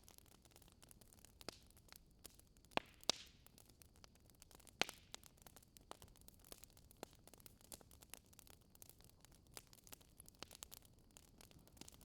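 Wood fire crackling in a fireplace: a faint steady hiss with scattered pops and snaps, the loudest few snaps about three and five seconds in.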